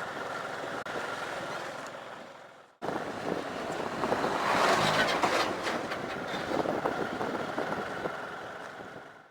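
Motorcycle riding on a dirt road: engine and tyre noise on the rough surface, with small ticks of gravel. The sound cuts off suddenly about three seconds in and resumes louder.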